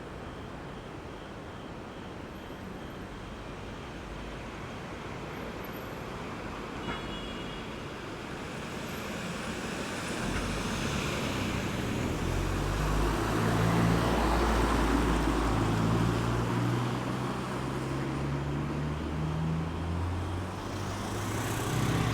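Road traffic at a roundabout: a steady hum of passing vehicles that swells about halfway through as a vehicle with a low engine note drives past close by, loudest around two-thirds of the way in.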